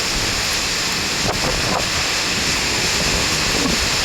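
Strong, gusting high wind buffeting the microphone: a steady, loud rushing noise.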